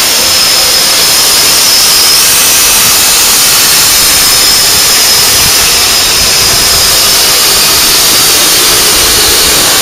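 Steam locomotive blowing off steam: a loud, steady hiss with a faint high whistling tone over it.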